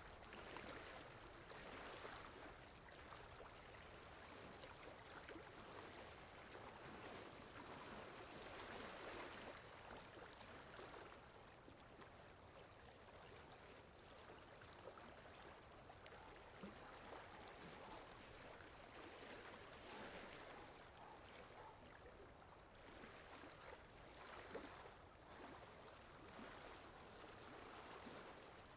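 Soft, steady rainfall: an even hiss of falling rain with scattered drop ticks, swelling and easing every few seconds.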